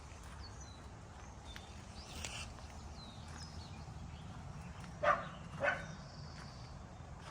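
A dog barks twice, about half a second apart, about five seconds in.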